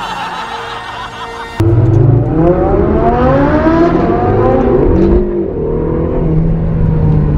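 For about the first second and a half, laughter and music carry over from a film clip. Then a supercar engine cuts in loud and sudden, revving hard under acceleration, its pitch climbing for a few seconds. It drops briefly about five seconds in, then runs steady.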